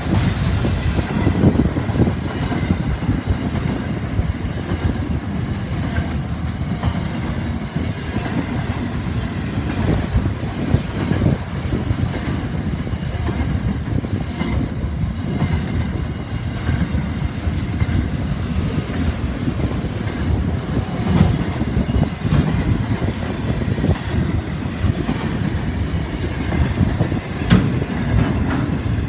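Freight train wagons rolling past: a steady rumble with the steel wheels clicking over the rail joints.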